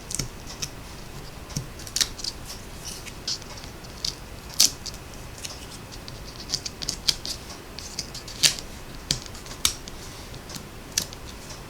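Backing papers being peeled off small foam adhesive dimensionals on a paper-crafting project: a scattered run of small crisp ticks and crackles at an uneven pace, two of them louder, about halfway and about three-quarters of the way through.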